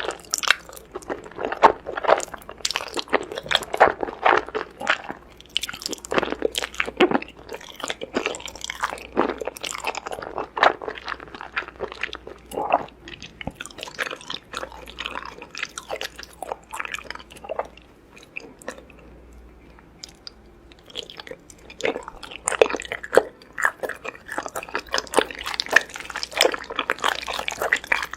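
A person chewing and eating noodles, a dense run of short, irregular mouth clicks and crunches, with a quieter lull about two-thirds of the way through.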